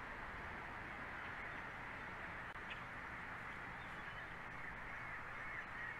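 Steady outdoor background hiss at the nest camera, with faint, repeated, wavering bird calls starting about two-thirds of the way in.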